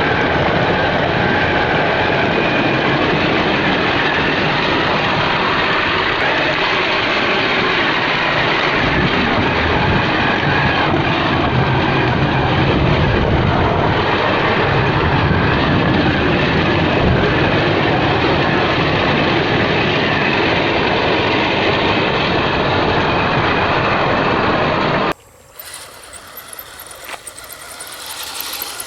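Axial SCX10 1/10-scale RC truck on tracks running, its motor, gearing and tracks making a loud, steady din. About 25 seconds in it cuts off suddenly, leaving a much quieter sound.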